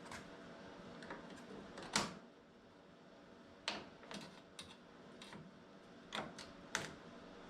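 Plastic exterior trim panel being worked loose from its clip and tape: scattered sharp clicks and knocks, the loudest about two seconds in, then a string of lighter ones.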